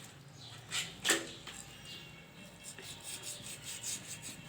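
Knife cutting and scraping at a plucked duck carcass as it is opened for gutting: two short knocks about a second in, then a run of quick rasping strokes.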